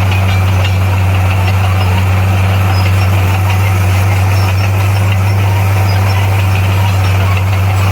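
Bulldozer's diesel engine running at a steady speed, a constant low drone with no revving or change in pitch.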